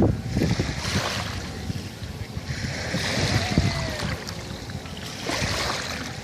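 Gusty outdoor noise at the water's edge: wind buffeting the microphone over lapping water, with a few faint far-off voices.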